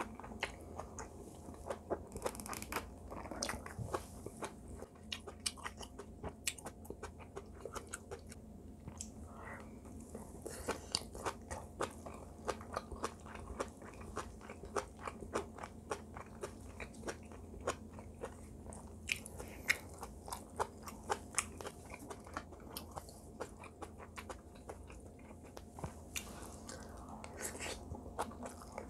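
Close-miked chewing of braised kimchi and rice: a long run of short, wet crunches and mouth clicks.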